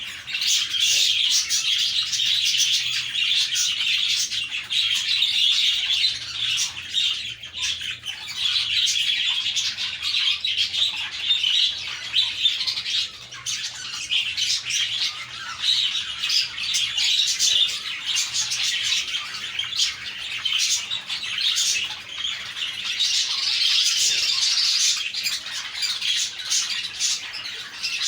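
A flock of budgerigars chattering and chirping continuously, many birds calling over one another with rapid warbles and squawks.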